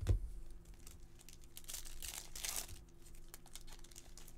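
A soft thump, then crinkling of a foil trading-card pack wrapper being handled, densest about two seconds in.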